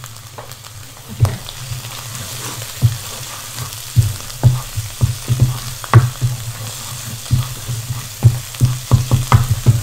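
Onion paste frying in oil in a pan, sizzling steadily, being fried until the oil separates. A wooden spoon stirs it, knocking and scraping against the pan, with the knocks coming thick and fast from about four seconds in.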